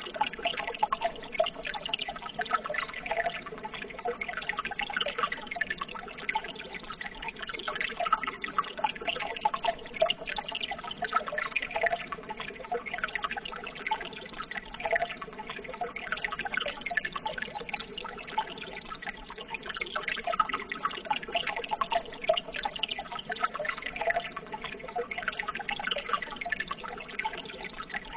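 Running water trickling steadily, a dense patter of many small drips and splashes.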